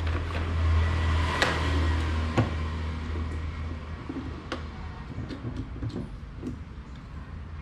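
Low electric hum of the fan motor, which stops about four seconds in. Scattered clicks and knocks from handling the fan's parts run through it, the sharpest about a second and a half in.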